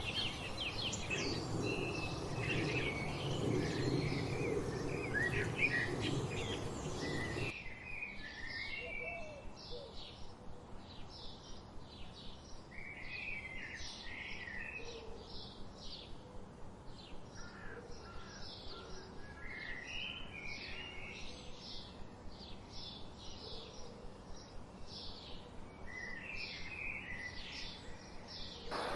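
Several wild birds singing and chirping together over a low background rumble. A little past a quarter of the way in, the scene changes suddenly: the rumble drops away and one bird repeats short chirps in a quick steady series while others warble around it.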